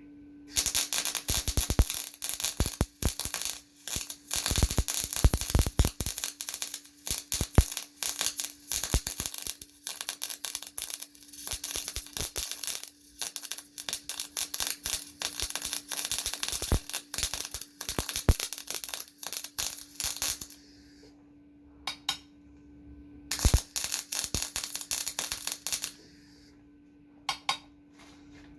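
Electric welding arc crackling and spitting in a long run, then a pause and two shorter bursts near the end, over a steady electrical hum.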